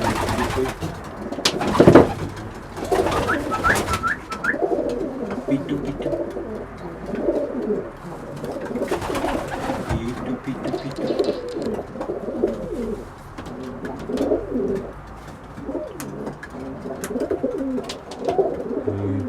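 Racing pigeons cooing over and over in their loft, one call after another. A few sharp knocks in the first couple of seconds, the loudest about two seconds in.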